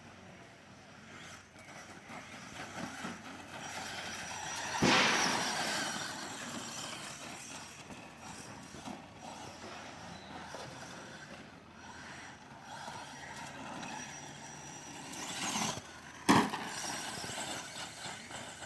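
Radio-controlled toy car driving over the ground, with a loud rush about five seconds in and a sharp knock about sixteen seconds in.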